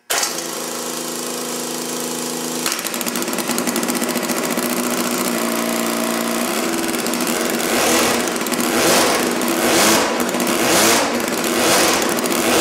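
Electric roller starter spinning the rear wheel of a 1955 Moto Rumi 125cc two-stroke twin fitted with a Subaru supercharger. After about three seconds the engine catches and runs. From about halfway through it is revved in repeated throttle blips, roughly one a second.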